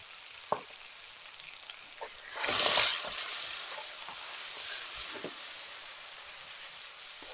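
Chicken strips frying in a hot wok, a steady sizzle with a louder surge of sizzling about two and a half seconds in and a few sharp clicks.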